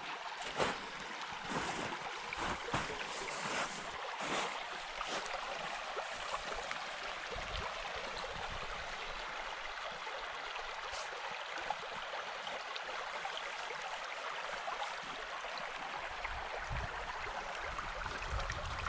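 Creek water flowing with a steady rushing sound, with gusts of wind buffeting the microphone during the first several seconds.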